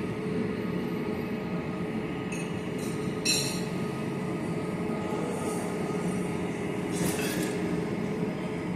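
A steady mechanical drone with a low hum, broken by two brief high clinks about three seconds and seven seconds in.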